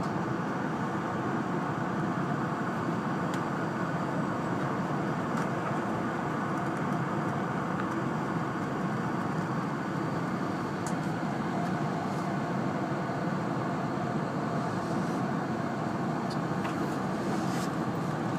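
Steady running noise inside the cabin of an E2-series Shinkansen, with a few faint clicks.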